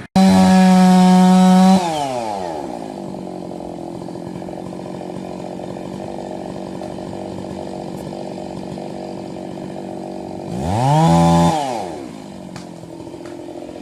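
Chainsaw revved at full throttle for nearly two seconds, then dropping to a steady idle. About ten seconds in it is revved up again briefly and falls back to idle.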